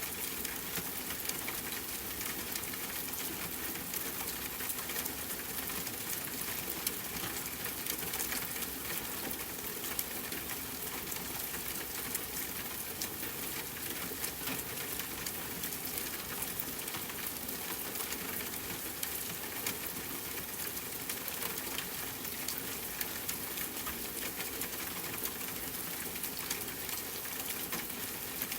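Steady rainfall mixed with a crackling wood fire: a constant wash of noise with many small pops and ticks scattered through it.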